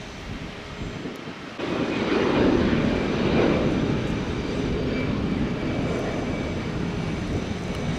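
Aircraft engine noise: a plane passing, a broad rushing sound that jumps louder about one and a half seconds in, then slowly fades.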